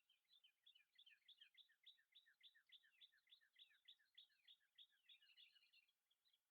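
Faint songbird calling: a fast, continuous run of short chirps, each sweeping down in pitch, about four or five a second, thinning out near the end.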